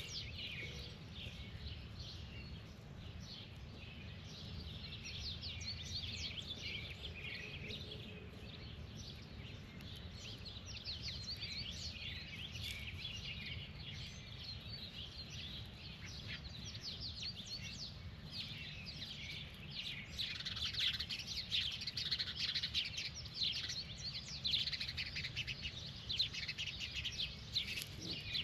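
Birds chirping and calling in a dense chatter of quick, high, falling notes, growing busier about twenty seconds in, over a low steady rumble.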